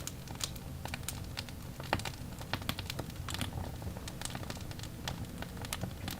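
Wood fire crackling: irregular sharp pops and snaps over a low, steady rumble of burning logs.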